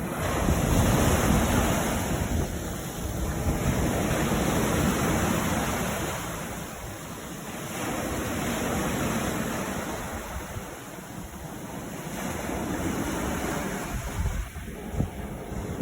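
Sea waves breaking on a beach, the wash of surf swelling and drawing back several times, about every four to five seconds. Wind gusts on the microphone add a low rumble at times.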